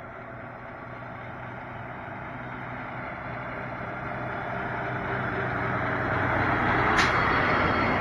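Garbage truck engine running and growing steadily louder as the truck approaches, with a brief sharp hiss or click about seven seconds in.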